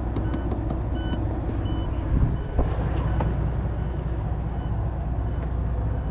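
Diesel semi-truck engine idling with a steady low rumble, while a warning buzzer beeps repeatedly, about three beeps every two seconds.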